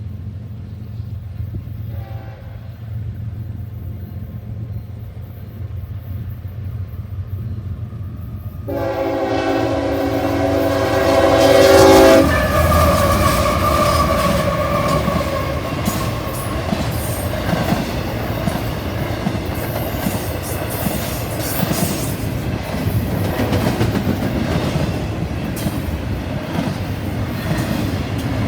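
Train horn: a faint short note about two seconds in over a low rumble, then a loud multi-tone locomotive horn blast lasting about three seconds, a third of the way in. After it cuts off the train runs past with a steady rumble and wheels clacking over the rails.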